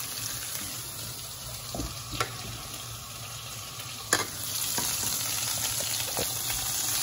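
Whole spices sizzling in melted butter in a non-stick pan, with a wooden spatula stirring and a couple of sharp knocks. The sizzle grows louder about four and a half seconds in.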